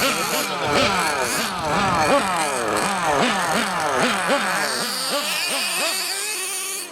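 Several small nitro engines on radio-controlled vehicles, revving up and dropping back over and over, overlapping one another.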